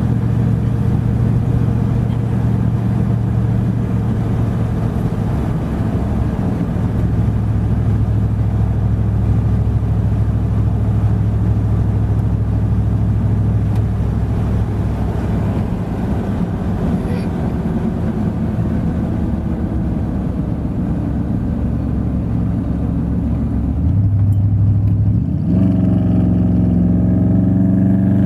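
Truck engine and road noise while driving, a steady hum at constant speed; near the end the engine note climbs as the truck accelerates.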